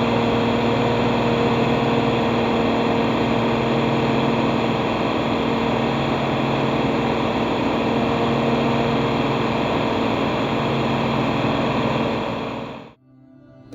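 John Deere 4230 tractor's six-cylinder diesel running steadily under load, driving a New Holland 355 grinder-mixer's hammer mill, with a steady hum from the mill. The sound fades out near the end.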